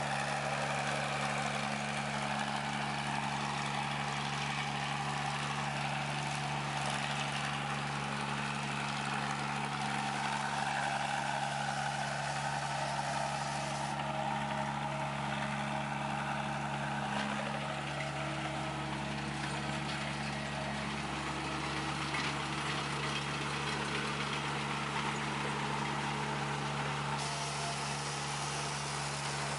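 Heavy machine's engine running steadily at a constant pitch, with no revving or sudden knocks.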